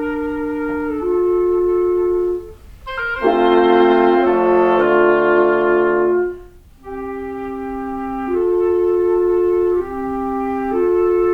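Wind quintet of flute, oboe, clarinet, bassoon and horn playing slow, held chords that move in step. About three seconds in comes a fuller, louder chord whose bass line steps down. Short breaks fall just before and just after it.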